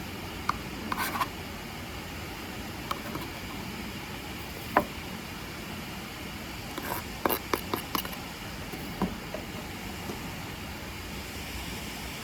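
Steady rushing of a nearby waterfall, with scattered light clicks and knocks of utensils and food being handled on a cutting board, clustered around the middle.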